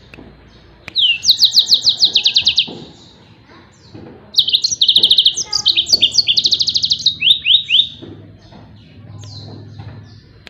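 Yellow-fronted canary (Mozambique canary) singing its rapid 'tembakan' phrase: fast runs of high, repeated down-sweeping notes, about seven a second. There are two loud bouts, the second longer and more varied, with short quiet gaps between them.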